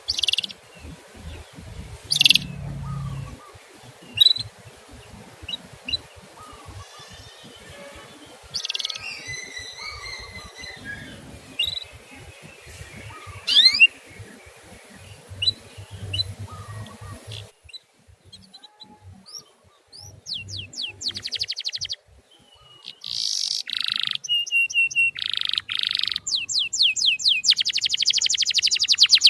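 Male canary calling and singing: scattered chirps and quick rising whistles at first, then, after a sudden change in the background about two-thirds through, denser song ending in a fast, loud rolling trill.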